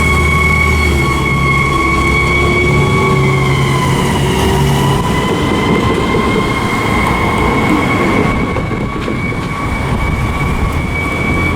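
Siren of a 1996 KME fire engine held on one steady high wail, dipping slightly in pitch about halfway through, over the truck's engine running.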